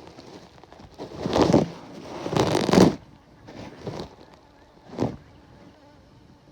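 Honey bees buzzing around an opened hive, picked up through the bee suit, broken by loud rustles: two big ones about one and two seconds in, and two smaller ones later.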